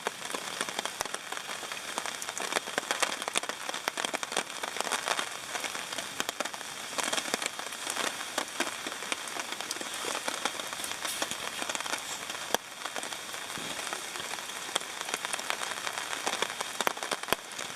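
Steady rain falling on a hammock tarp overhead, with many sharp drop ticks scattered through it.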